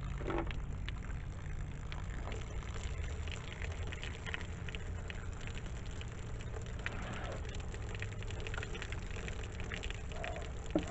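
Water splashing and dribbling from a shot, water-filled plastic jug as it is handled to get at the bullet inside, with small irregular clicks over a steady low rumble.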